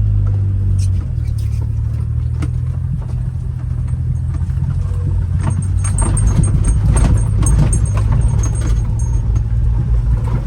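Honda mini truck driving in second gear over rough ground: the small engine's steady low drone, with the cab rattling and jangling from about halfway through as it drops through a dip in the ground.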